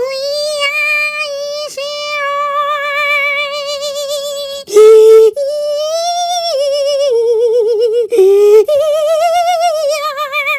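A shrill, high-pitched voice holding long notes, steady at first and then wavering, with two short, louder, lower notes about five and eight seconds in.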